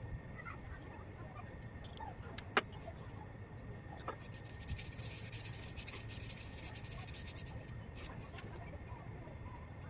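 Chalk crunching: a sharp snap about two and a half seconds in, then a few seconds of dense fine crackling, over a low steady hum.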